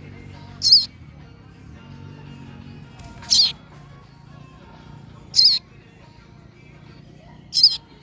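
Fledgling songbird giving four loud, short, high-pitched calls about two seconds apart, the begging calls of a young bird fluttering its wings, with faint music beneath.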